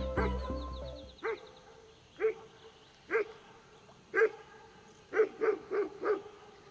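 A dog barking in short, high yips, one about every second, then four in quick succession near the end. Background music fades out in the first second.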